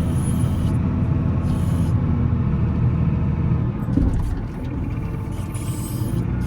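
Volvo L70C wheel loader's diesel engine running steadily under work. About four seconds in there is a single knock, and the engine note then drops a little lower and quieter.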